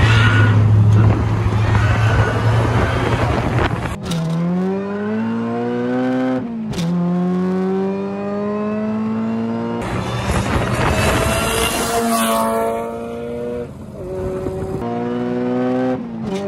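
Supercharged Acura Integra GS-R B18C5 four-cylinder at full throttle, revs climbing in several pulls, each broken by a brief dip at a gear change.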